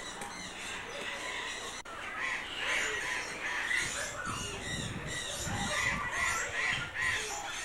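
Many birds in a bird park's aviaries chirping and calling at once, a busy overlapping chorus of short calls.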